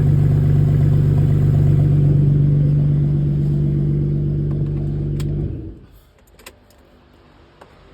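2005 Honda Pilot's 3.5-litre V6 running steadily with no exhaust fitted, then shut off about five and a half seconds in. A few faint clicks follow.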